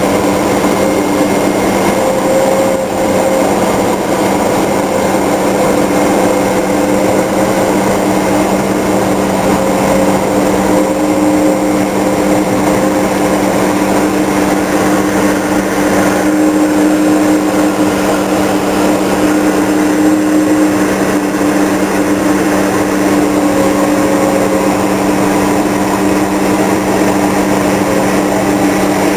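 Steady flight-deck noise of a Vickers VC10 under way: rushing air and jet-engine noise with a constant hum of several held tones.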